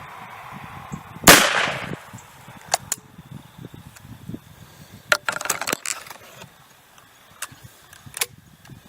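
A single shot from a .410-bore shotgun about a second in, with a short trailing decay, followed by several much quieter clicks and knocks.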